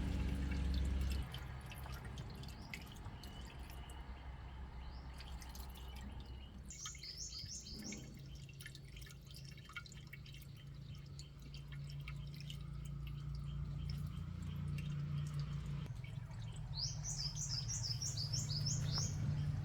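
A small bird sings two brief trills of quick, high, downward-sliding notes, about seven seconds in and again near the end, over a low engine hum that grows louder toward the end, with faint scattered clicks early on.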